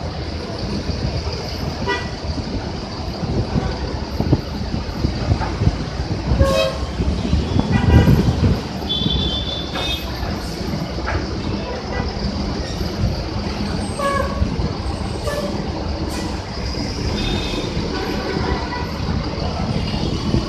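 City buses running past at a busway stop, with engine rumble that swells about a third of the way in and short horn toots.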